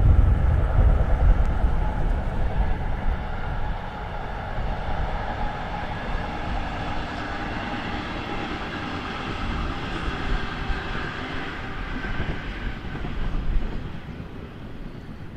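A train running past on the line, with a heavy low rumble at first, then a steady rolling sound that dies away near the end.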